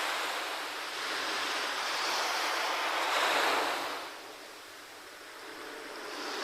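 Sea waves washing in and drawing back: a surge of surf about three seconds in that fades away, then builds again near the end.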